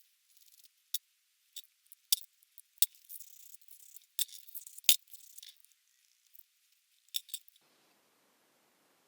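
Scattered sharp clicks and light clinks of small hard parts being handled, about eight in all, with faint scraping around some of them and quiet gaps between.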